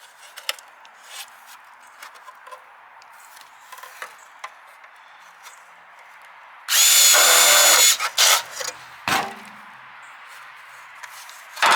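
Power drill running at speed for about a second, with a steady whine, then two short bursts of the trigger, after some light handling clicks.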